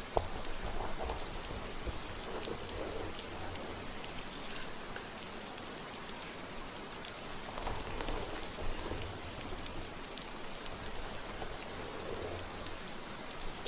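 Steady rain falling, an even hiss, with soft rustling strokes every couple of seconds from hair being played with. There is one small click just after the start.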